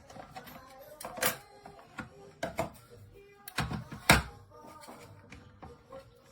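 Irregular clicks and knocks of hard plastic being handled, with a few sharper knocks about a third of the way in and just past the middle.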